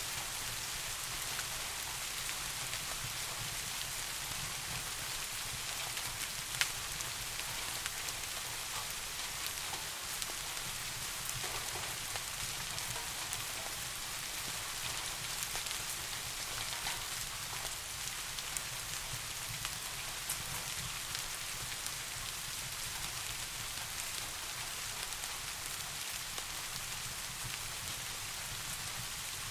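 Steady rain falling, an even hiss with scattered sharp ticks of drops, one louder tick about six and a half seconds in.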